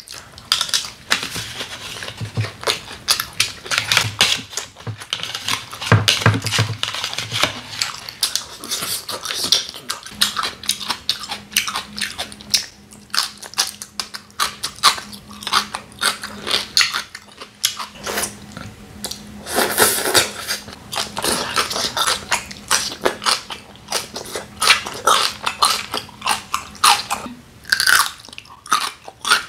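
Close-miked chewing and biting of cockle and raw beef bibimbap: wet mouth sounds and dense irregular crackles, with crisp crunches from bites such as yellow pickled radish.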